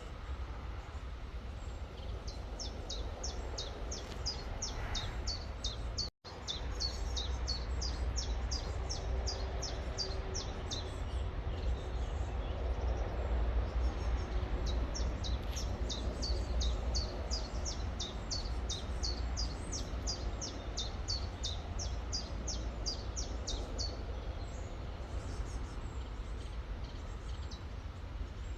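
A songbird repeating quick, high, downward-slurred notes, about three to four a second, in long runs with short breaks, over the steady rush of a river. The sound cuts out completely for a split second about six seconds in.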